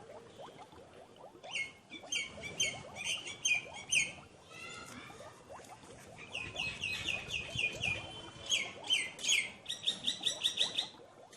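Small birds chirping: quick series of sharp, high, repeated chirps over a continuous background of softer twittering.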